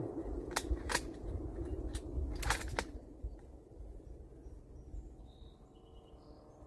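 A handful of sharp metallic clicks in the first three seconds, the Mauser 98 bolt action being worked to chamber a fresh .30-06 round between shots, over a low rumble of wind.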